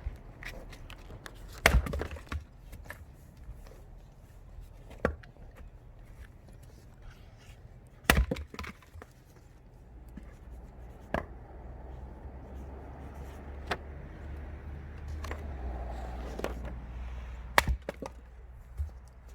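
Firewood being split with an axe: three loud, sharp wooden cracks, about two seconds in, near the middle and near the end, with lighter knocks between them.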